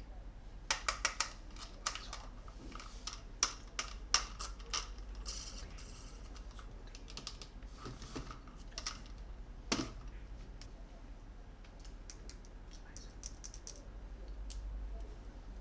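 Hard plastic toy parts clicking and tapping as they are handled, in irregular bursts: a quick run of four clicks about a second in, scattered taps after, one sharper knock near the middle, then fainter ticks.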